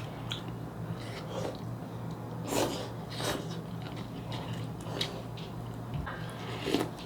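Close-up eating sounds: chewing of spicy stir-fried chicken galbi with scattered wet mouth smacks, the clearest two near the middle. A steady low electrical hum runs underneath.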